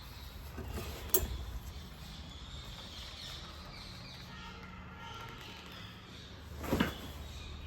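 Gear being handled: a sharp click about a second in and a louder knock near the end, over a low steady hum.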